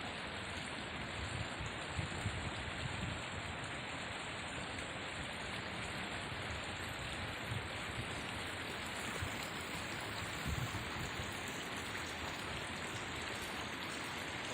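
Steady rushing noise of running water, with a few faint low thumps.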